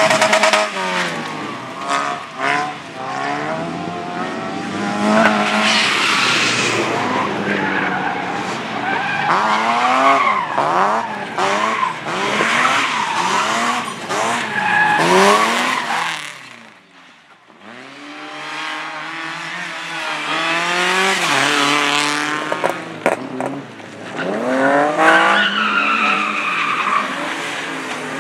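Autoslalom car engines revving hard, the pitch climbing and dropping again and again through the gear changes and tight turns, with tyre squeal. About two-thirds of the way through the engine noise drops away briefly before a car revs up again.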